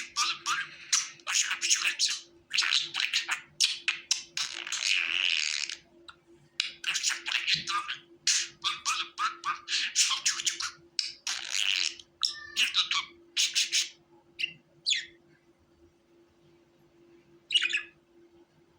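Budgerigar warbling and chattering in quick runs of high chirps, thinning after about fourteen seconds to a few single chirps, the last near the end. A faint steady hum lies underneath.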